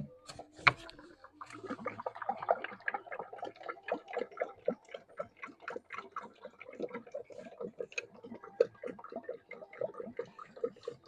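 Hydraulic fluid glugging as it is poured into the tractor's hydraulic fill, a fast irregular gurgle starting about a second and a half in, after a couple of sharp knocks.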